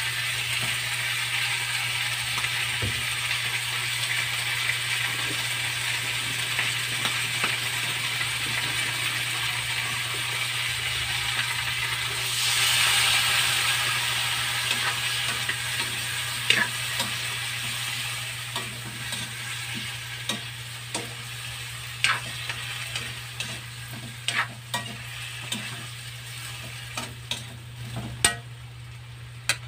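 Chicken liver and gizzards with potatoes sizzling steadily in a metal wok, the sizzle swelling for a couple of seconds about twelve seconds in. Through the second half a metal spatula knocks and scrapes against the wok as the pieces are stirred, the knocks coming more often toward the end.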